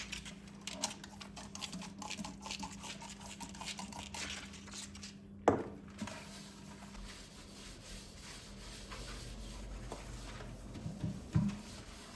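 Household items being handled during cleaning and tidying: many light clicks and clinks, one sharp knock about five and a half seconds in, and a couple of dull thumps near the end.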